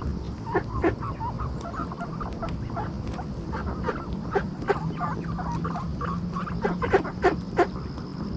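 A group of ducks feeding close by: short calls and a scatter of sharp clicks, the loudest clicks about a second in and three in quick succession near the end.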